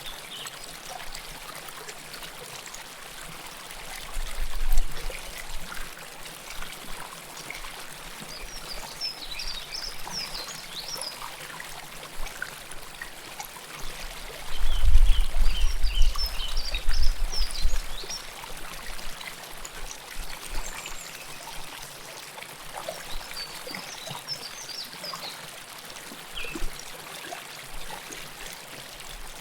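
River water flowing and trickling close to the microphone, a steady rush. A deep rumble swells twice, briefly about four seconds in and for several seconds in the middle, and a few bursts of high bird chirps come through.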